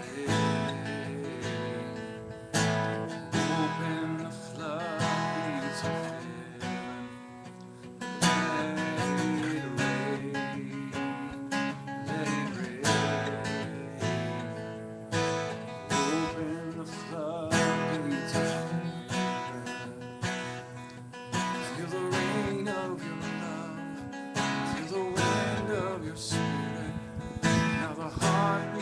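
Acoustic guitar strummed steadily in a regular rhythm, playing a worship song's instrumental intro.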